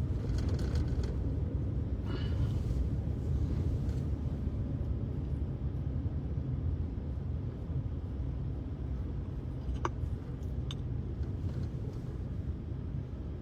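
Car driving, heard from inside the cabin: a steady low rumble of road and engine noise, with a few faint ticks and hisses.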